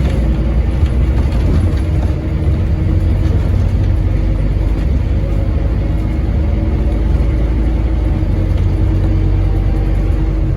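Scania N230UD double-decker bus's diesel engine running under way, a steady deep drone without any clear rise or fall in revs.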